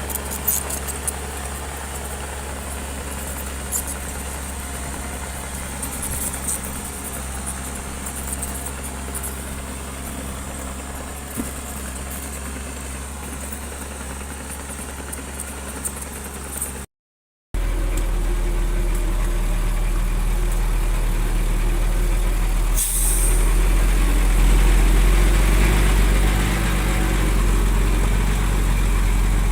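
Heavy bulldozer's diesel engine running steadily. After a short break about halfway through, it comes back louder and deeper.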